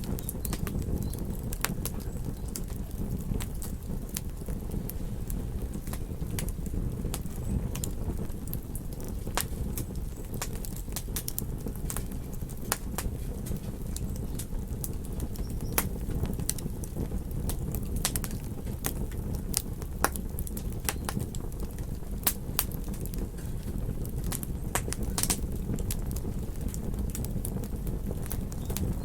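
Campfire crackling, with many sharp irregular pops and snaps over a steady low rumble.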